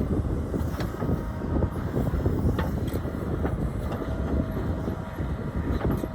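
Strong wind buffeting the microphone in a gusty low rumble, with an engine running faintly underneath and a few sharp clicks or clanks.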